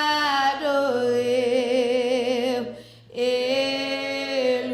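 A woman singing a slow worship song in Haitian Creole, drawing out long notes with vibrato, with a short break for breath about three seconds in.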